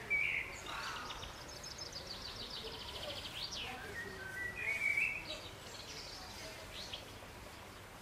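Small songbirds singing: a fast, high trill of rapidly repeated notes lasting about two and a half seconds, with shorter chirps and phrases before and after it.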